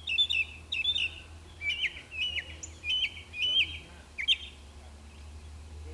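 A songbird calling a quick series of sharp chirps, often in pairs, that stops about four seconds in, over a steady low hum.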